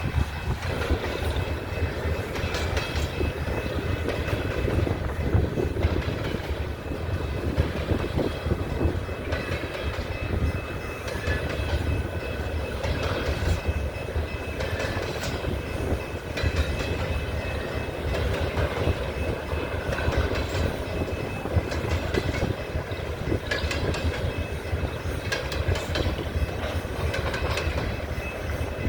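Coal train cars rolling steadily past on the rails: a continuous low rumble with the clickety-clack of wheels over rail joints.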